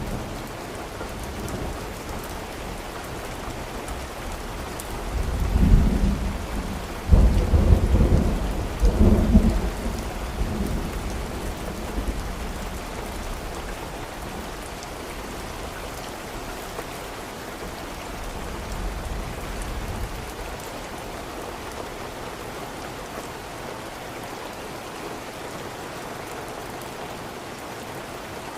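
Steady rain with a roll of thunder: a low rumble swells about five seconds in, peaks in a few surges, then dies away over the following ten seconds, leaving the steady rain.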